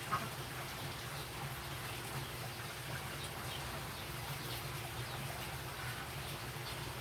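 Steady background hiss with a low hum, and faint, brief chirps scattered throughout.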